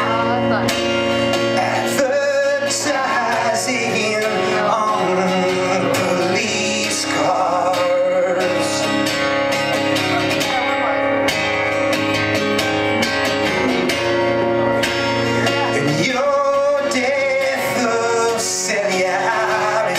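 Live rock music: guitar playing with a man singing.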